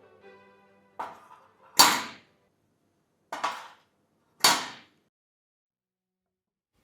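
Four sharp knocks, each ringing briefly, spaced about a second apart, with the fourth about four and a half seconds in.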